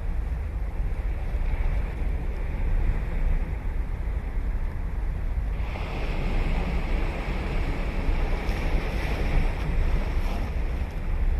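Ocean surf breaking on the beach, one wave's rushing wash swelling about halfway through and dying away near the end. Wind buffets the microphone with a steady low rumble.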